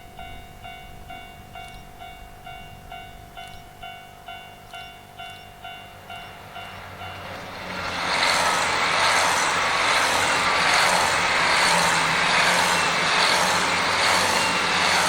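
A railway level-crossing bell dings about twice a second. About 8 seconds in, a JR Hokkaido Hokuto diesel express passes at speed: a loud rushing of wheels and engines swells up, holds with a regular beat, and fades near the end, with the bell ringing on.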